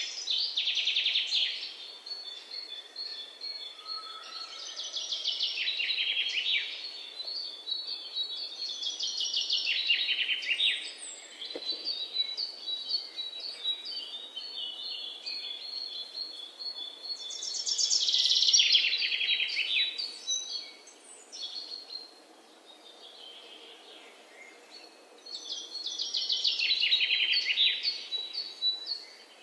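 Songbirds singing: a rapid descending trill repeated every few seconds, with scattered short high chirps in between.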